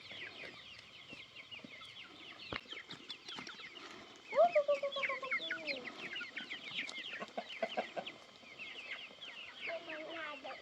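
Chickens clucking and cheeping busily, with many short high peeps and a louder, drawn-out call about four seconds in. A single knock sounds a little before three seconds in.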